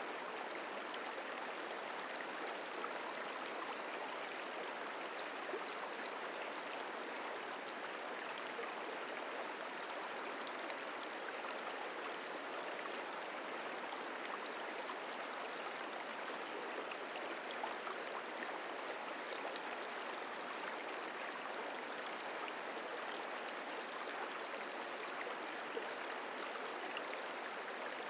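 Merced River flowing: a steady, even rush of moving water.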